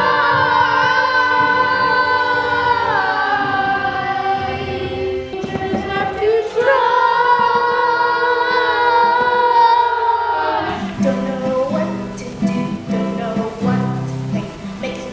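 Young voices singing long held notes in two sustained phrases, with no clear words. About ten seconds in, the singing gives way to a lower musical accompaniment of short, repeated notes.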